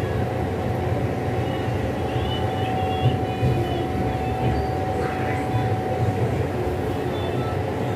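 Steady running rumble of a moving LHB coach, heard from inside the rear Vistadome coach. A thin steady whine comes in about two seconds in and fades out around six seconds.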